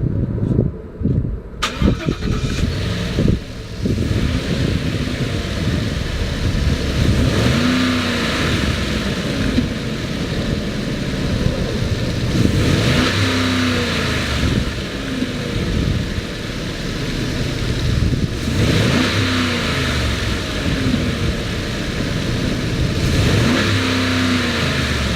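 2018 Ford F-250 engine cranking and catching about two seconds in, then idling, with four revs spaced roughly five to six seconds apart, each rising and falling back to idle.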